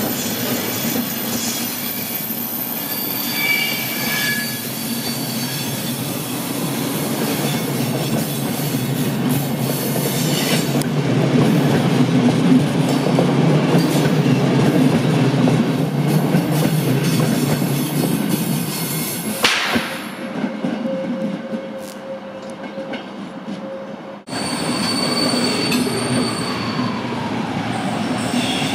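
Passenger coaches rolling past on the rails: a steady wheel rumble with a few high wheel squeals early on and a sharp click about three-quarters through. After an abrupt cut near the end, a different railway scene follows, with a steady rumble and a whine that dips in pitch and rises again.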